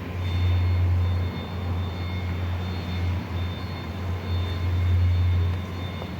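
Mercedes-Benz Axor truck's diesel engine running with a steady low drone, swelling louder twice, with a faint high whine above it.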